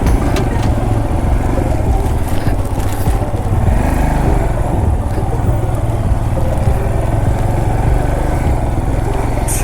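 Motorcycle engine running steadily while being ridden, with a few sharp clicks and knocks, one louder near the end.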